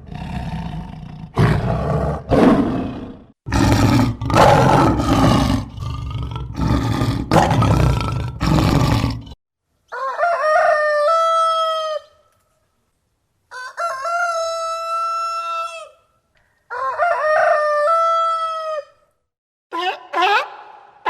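A lion roaring in a series of deep, rough, grunting roars for the first nine seconds or so. Then a rooster crows three times in long cock-a-doodle-doos, each about two seconds, with a fourth crow starting near the end.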